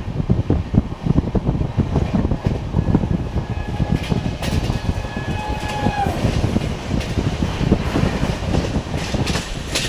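Express train running on the rails: a steady rumble with rapid wheel clatter over the track, and a brief thin high tone around the middle.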